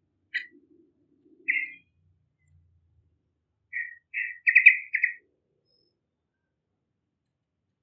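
Yellow-vented bulbul (trucukan) calling in short bubbly chirps: one near the start, another about a second later, then a quick run of several chirps about four seconds in.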